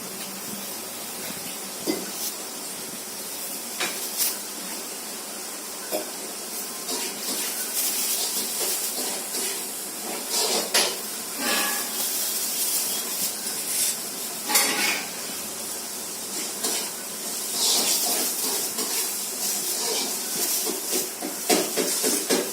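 Pet parrot's beak clicking and scraping as it eats from a hand: scattered sharp clicks at first, then busier nibbling and a run of quick clicks near the end, over a steady hiss.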